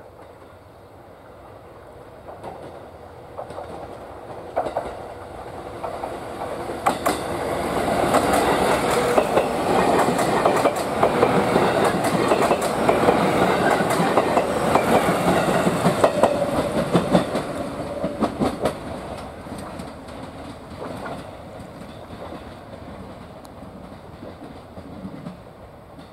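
A JR East GV-E400 diesel-electric railcar approaching and passing close by. It builds to its loudest mid-pass with the clickety-clack of wheels crossing rail joints, then fades as it moves away.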